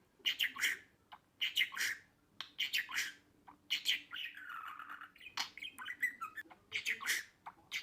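Budgerigars chirping and chattering in quick clusters of short, high chirps, with one longer, lower call about four seconds in.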